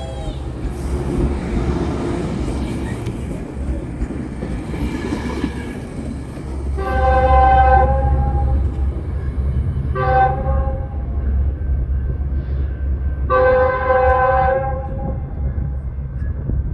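Metrolink diesel commuter train pulling out, its engine rumbling low throughout while the locomotive's multi-note horn sounds three times: long, short, then long. With a long blast just before, this is the long-long-short-long grade-crossing signal.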